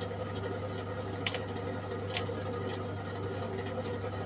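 Steady electrical hum of a switched-on SIP MIG welder idling between welds, with a couple of light clicks about a second and two seconds in.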